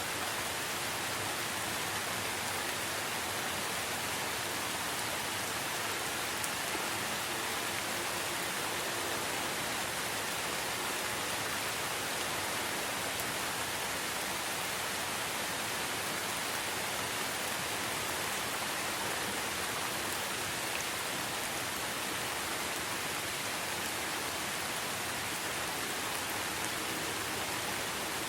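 Steady, even rain falling, a continuous hiss of drops on a surface.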